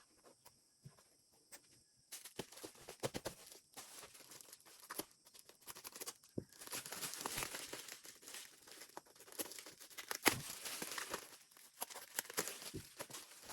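Crinkly wrapping or packaging being handled, rustled and crumpled in irregular crackles with sharp clicks, starting about two seconds in and growing busier from the middle on.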